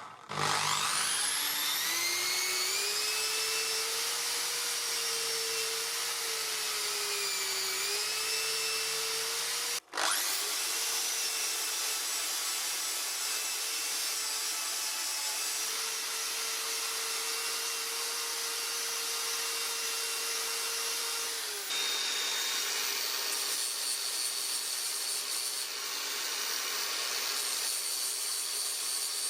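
A small high-speed electric power tool spins up with a rising whine, runs with its pitch dipping now and then as it bears on the work, cuts out briefly about ten seconds in and spins straight back up. Near the end the sound turns rougher and more rasping, like grinding or sanding on metal.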